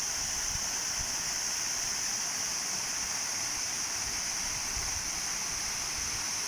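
Steady rush of water falling over an artificial rock waterfall into a pond, with a constant high hiss above it.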